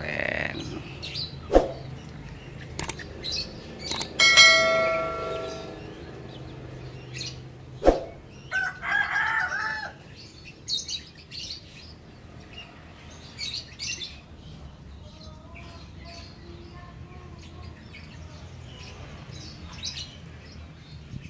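Scattered bird calls in a yard: a long steady call about four seconds in, a louder wavering call just before the tenth second, and faint chirping later, with a few sharp knocks between them.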